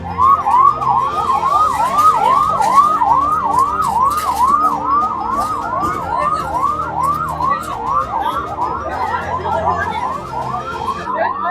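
Emergency vehicle siren in yelp mode: fast rising-and-falling wails, about three a second.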